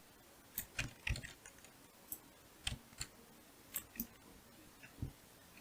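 Computer mouse and keyboard clicks, faint and irregular, about ten separate clicks spread through a few seconds.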